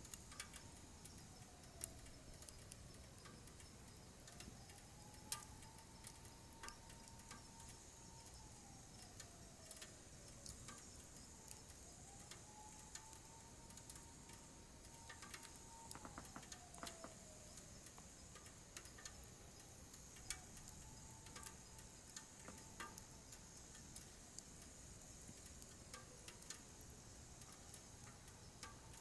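Wood fire in a wood-burning stove crackling, with scattered sharp pops, two louder ones in the first few seconds. A faint whistling tone slides down and back up again every few seconds.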